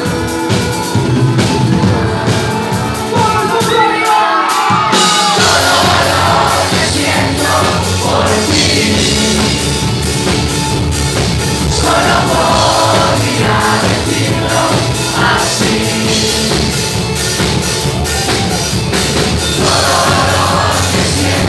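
Live band music with singing, a crowd audible in the mix; the bass drops out briefly about four seconds in, then the full band comes back in.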